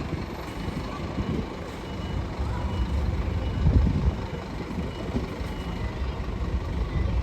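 Scania OmniCity bus's diesel engine running with a steady low rumble that swells briefly midway, and a few faint, short high beeps like a reversing alarm in the first couple of seconds.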